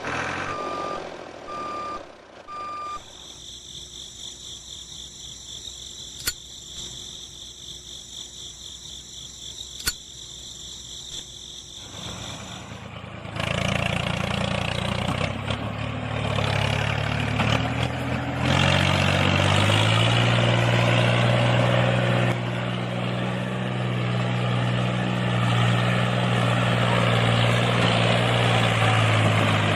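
Mini construction vehicles: a short run of evenly spaced reversing beeps, then a steady high-pitched whine. About thirteen seconds in, a louder engine hum takes over; its pitch steps up a few seconds later and then holds steady.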